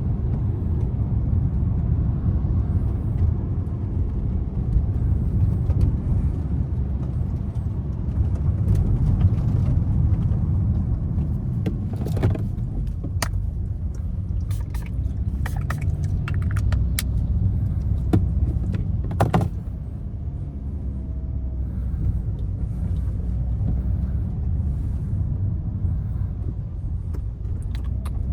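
A car driving through city traffic: steady low rumble of engine and tyre noise, with a run of sharp clicks and taps about halfway through, after which the rumble settles a little quieter.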